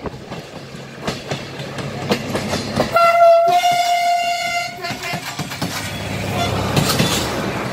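Regional passenger train passing close by, a steady rumble with its wheels clacking over rail joints. About three seconds in comes one steady horn blast lasting about two seconds, the loudest sound here.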